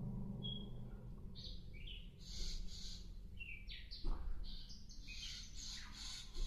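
A sikatan londo flycatcher singing: short high chirps and quick trills, scattered at first and coming thicker and faster from about four seconds in, over a faint steady low hum.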